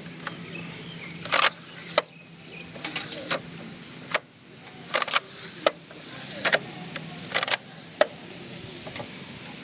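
Irregular clicks, knocks and short scrapes of an Epson L380 printer's parts being handled and pried during disassembly, about a dozen sharp strokes over a steady low hum.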